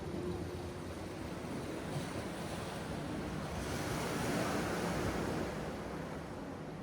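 Sea surf washing in steadily, with a wave surging up louder about halfway through and falling away again; wind rumbles on the microphone.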